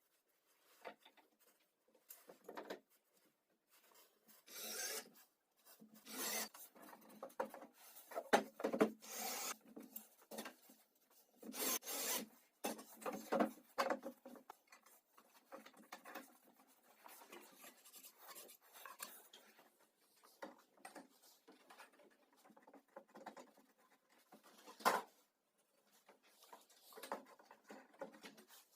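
Irregular scraping and rubbing strokes on wood, some short and some drawn out for about a second, with one sharper scrape near the end.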